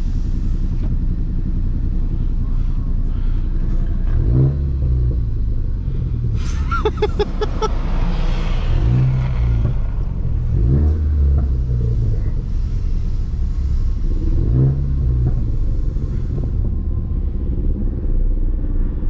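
Ford Focus ST's turbocharged four-cylinder engine and road rumble heard from inside the cabin while cruising. The engine note rises briefly several times as the car accelerates.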